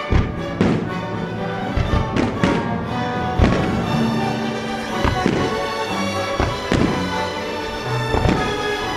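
Fireworks shells bursting in an irregular string of booms, about a dozen over the stretch, over music played for a pyromusical display.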